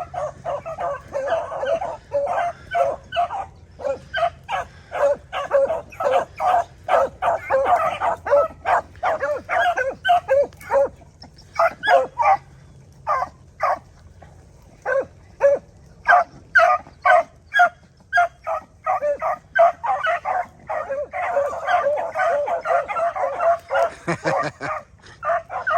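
A pack of beagles baying and chopping as they run a rabbit's scent trail, packed together: many overlapping barks, coming thick at first, thinning to scattered single barks around the middle, then swelling back to a steady chorus.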